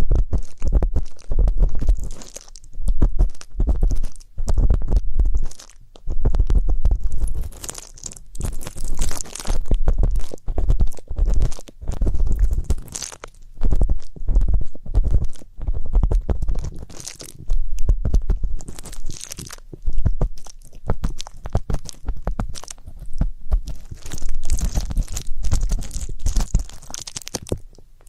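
Ear-cleaning ASMR: a tool scraping and rubbing right against the microphone, making close, crackly scratching with muffled low thumps in irregular strokes about a second long.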